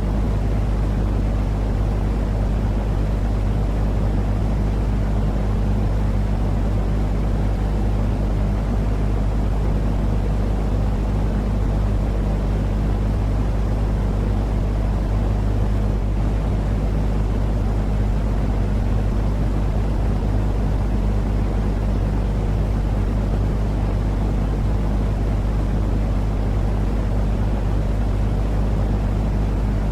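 Steady low droning noise with a constant deep hum underneath, unchanging throughout: a continuous sleep-aid noise for soothing babies.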